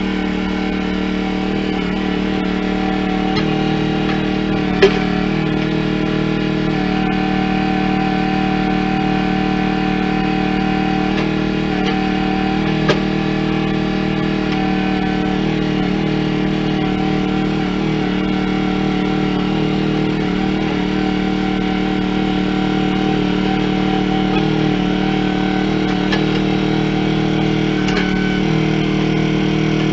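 A machine's engine running steadily at a constant speed, with two brief sharp clicks or knocks, about 5 and 13 seconds in.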